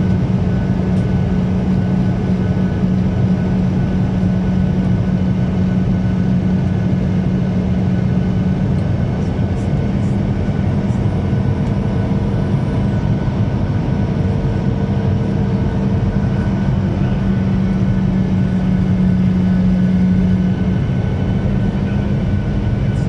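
Steady drone of a Boeing 737 airliner on approach to landing: a constant low hum with one strong steady tone, swelling slightly near the end.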